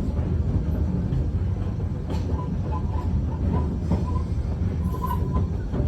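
Steady rumble of a passenger train car riding on the rails, with occasional sharp clicks of wheels over rail joints and faint brief squeals.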